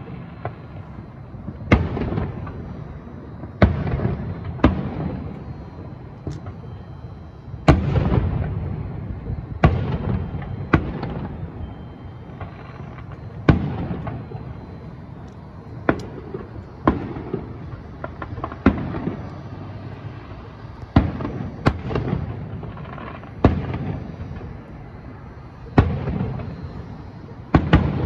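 Aerial fireworks shells bursting, with a sharp bang every one to two seconds, each trailing off in an echo.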